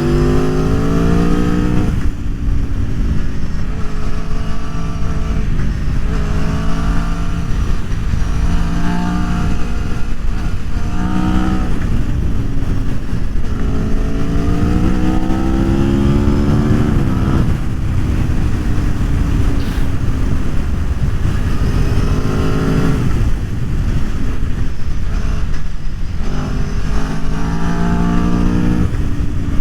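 Aprilia Tuono V4 1100's 1,077 cc V4 engine pulling hard through the gears, its pitch climbing and then dropping back at each shift, about ten times over, with a steady rushing noise underneath.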